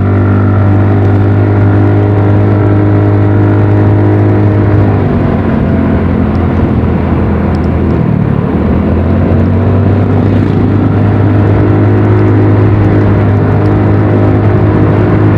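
Motorcycle engine running while riding, steady at first, then easing off about five seconds in and picking up again about three seconds later, over a steady rush of wind and road noise.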